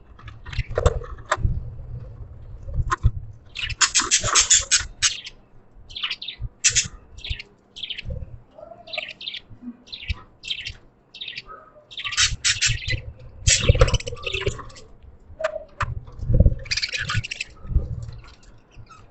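Budgerigars chirping and chattering in quick, busy clusters of short high calls, with pauses between clusters. Dull low thumps and bumps run underneath.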